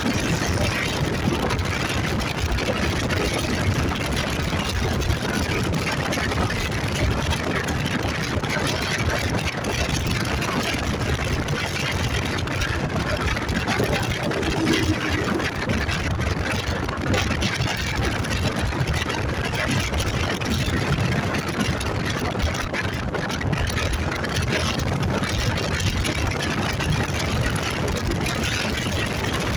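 Motorcycle engine running steadily under way, mixed with a constant rush of wind and road noise.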